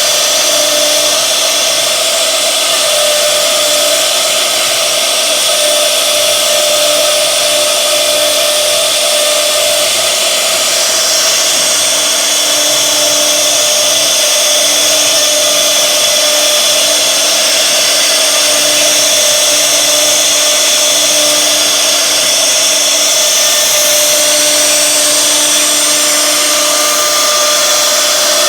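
1325 CNC router's spindle running steadily while cutting wood: a continuous high whine over hiss, with no break.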